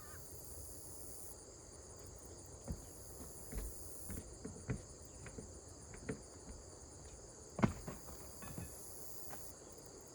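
Steady high chirring of insects, with scattered knocks and taps from work on a plywood roof deck; the loudest knock comes about three-quarters of the way through.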